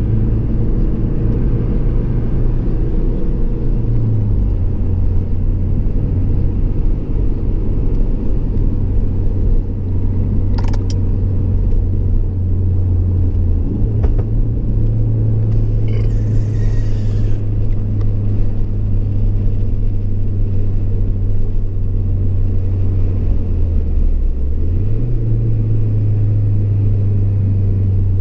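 Ford Focus RS's turbocharged four-cylinder engine and road noise heard from inside the cabin, a steady low engine note. The pitch steps down about four seconds in and dips briefly, then rises again near the end. A single sharp click comes a little before the halfway point, and a short hiss a few seconds later.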